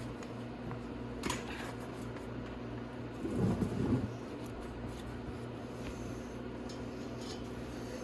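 Steady hum of a workshop fan under a few light clicks and a short scraping rattle about three seconds in, as the muffler's exhaust springs on a small ATV are pried off with needle-nose pliers.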